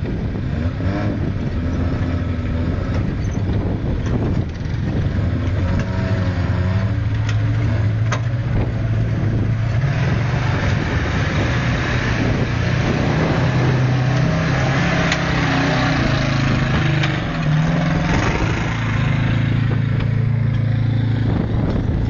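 A small off-road 4x4's engine is running under load, its revs rising and falling as it works down a muddy gully track. Gusts of wind hit the microphone from about ten seconds in.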